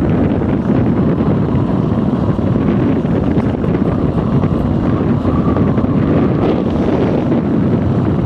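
Dual-sport motorcycle running steadily on the move, mixed with heavy wind buffeting on the microphone.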